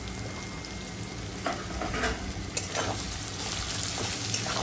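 Potatoes and ground spices sizzling in hot oil in a kadai, with a metal spatula scraping and stirring them against the pan starting about a second and a half in.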